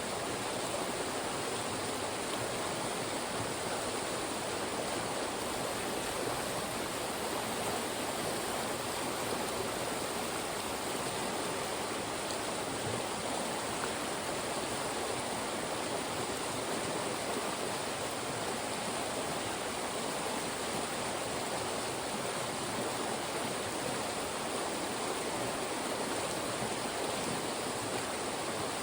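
Fast-moving mountain stream rushing through channels between rocks, a steady, even rush of water.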